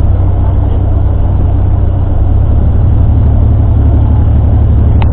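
Tour bus engine running with a steady low rumble, heard from inside the bus; its note becomes a little more pulsing about halfway through.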